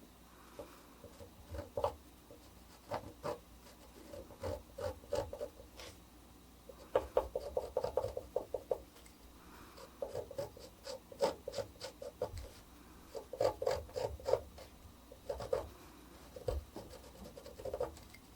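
Etching needle scratching lines into the ground on a copper etching plate, in bursts of quick short strokes with brief pauses between.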